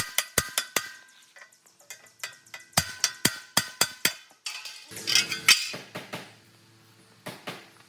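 Metal struck repeatedly in quick runs of ringing taps, about five a second, in two bursts with a pause between them. About five seconds in comes a short stretch of metallic scraping and rattling.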